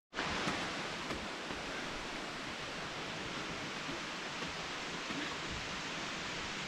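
Steady rushing of a waterfall: an even wash of falling water with no change in level.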